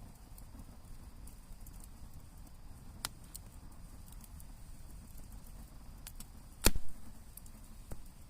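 Wood campfire crackling, with scattered small pops and one loud snap about two thirds of the way through, over a low steady rumble.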